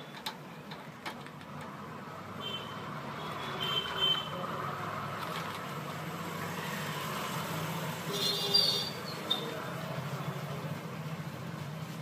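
Short bursts of high bird chirping, about two and a half, four and eight and a half seconds in, over a steady low background rumble, with a few faint clicks in the first second.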